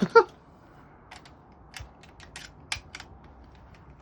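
A short, loud vocal cry right at the start, then a string of scattered sharp mechanical clicks and clacks from shooting equipment being handled between clay-target shots.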